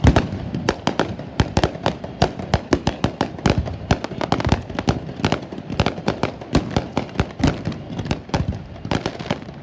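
Fireworks going off in quick succession: a heavy boom at the start, then a steady barrage of sharp bangs and cracks, several a second.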